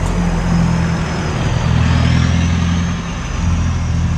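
An engine running close by: a steady low hum that swells about two seconds in and eases off about a second later.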